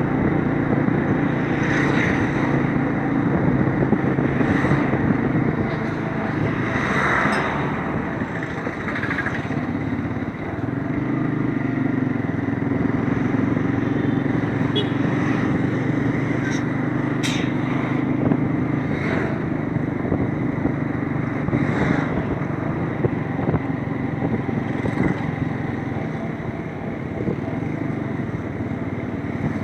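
Motorcycle engine running at a steady pace on the move, with a few short sharp clicks and rattles over it.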